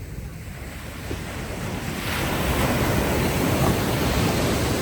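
Ocean wave breaking and washing up the beach, the surf swelling from about a second in and loudest over the second half.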